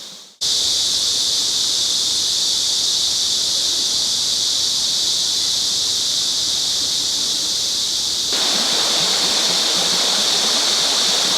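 Cicadas in a steady high-pitched chorus over the rush of a mountain stream. The sound starts abruptly after a brief gap, and the water gets louder about eight seconds in.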